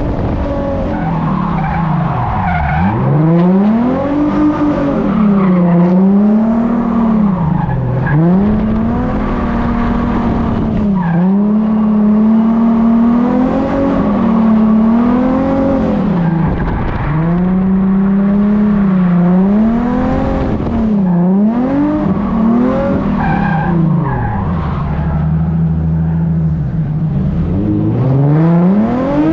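Nissan 350Z's 3.5-litre V6 revving hard through a drift run. The revs swing up and down every second or two and hold steady at the top for stretches of a few seconds.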